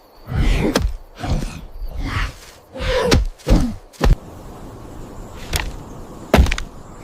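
A run of heavy, irregular thuds and knocks, dense for about four seconds and then spaced out, with two more near the end.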